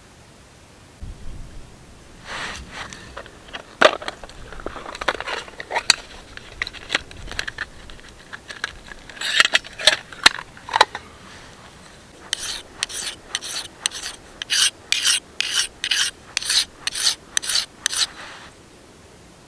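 A hand tool scraping and rasping on wood. It starts as irregular scrapes and clicks about a second in, then turns into an even run of short strokes, about two a second, that stops near the end.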